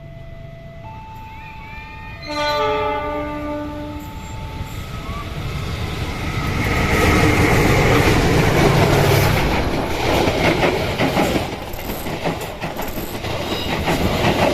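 A train's horn blows once, about two seconds in, for roughly two seconds. The train then approaches and passes close by, a rumble that grows loud, with the wheels clacking over the rail joints in the later part.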